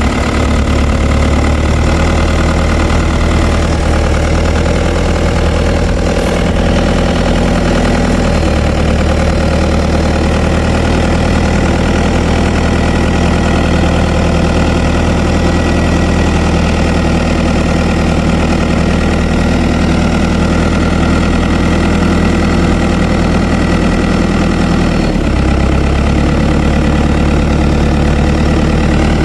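New Holland TN90F tractor's diesel engine running at a steady speed, its note shifting slightly about eight seconds in and again near the end.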